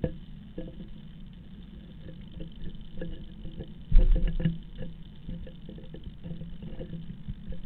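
A blue tit shuffling about inside its nest box, its feet scratching and tapping on the box in a run of small knocks, with a louder thump about four seconds in, over a steady low hum.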